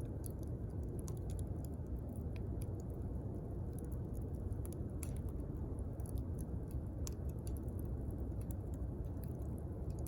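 Wood campfire crackling: scattered sharp snaps and pops, irregular and several a second at times, over a steady low rumble of the burning fire.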